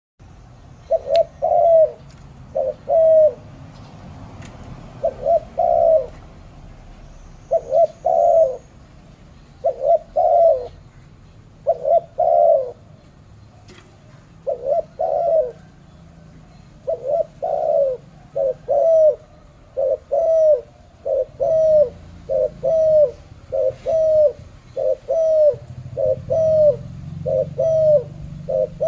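Spotted dove cooing: repeated low phrases of two or three coos each, about every two seconds at first, then quicker, about one a second, from about seventeen seconds in. Faint high chirps of another small bird sound behind it in the later part.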